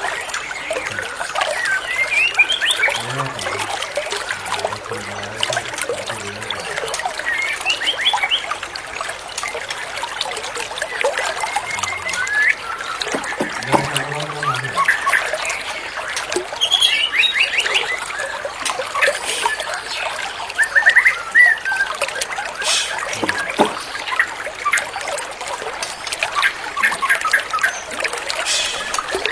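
White-rumped shama singing a varied string of whistles, chirps and rapid trills over a steady trickle of running water.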